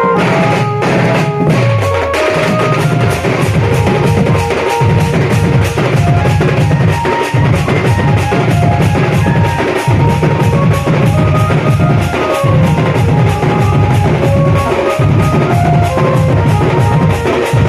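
Sound band music: a fast, steady drum beat with heavy bass drum and snare under a short-note melody line.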